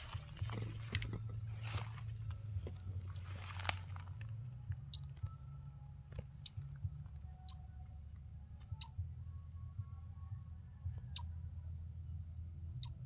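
A steady high-pitched insect drone, with a small bird's short, sharp chirps repeating about once every second or so.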